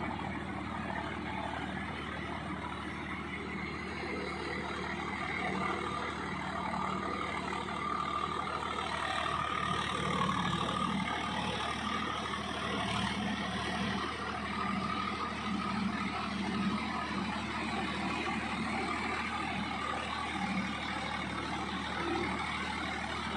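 Swaraj 744 4x4 tractor's diesel engine running steadily under load while tilling a field, with small swells in level.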